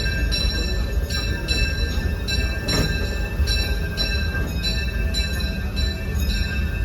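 Disneyland Railroad train running: a steady low rumble with short clicks coming roughly twice a second, and some music mixed in.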